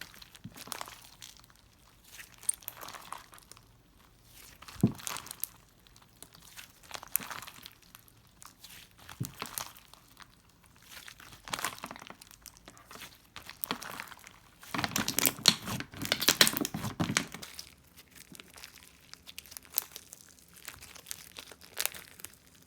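Slime being squished and stretched by hand, giving bursts of crackly, popping clicks every second or two, with a denser run of crackling about two-thirds of the way through.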